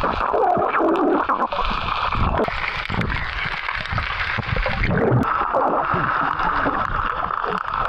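Fast-flowing water rushing and splashing steadily, with faint voices mixed in.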